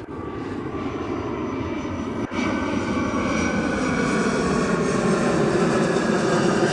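Jet airliner on approach to land, a steady engine rumble with a faint whine that grows louder after a brief dip about two seconds in.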